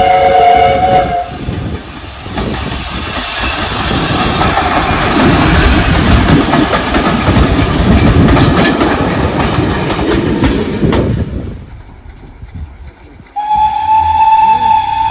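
A steam locomotive's whistle, several notes together, stops about a second in. Then a train passes close by with a loud rumble and clatter of wheels on rail joints for about nine seconds, and fades away. Near the end a second whistle begins on a single steady note.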